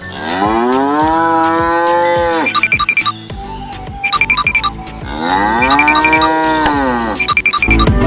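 A cow mooing twice, each long call rising and then falling in pitch, with short rhythmic high notes of music in the gaps.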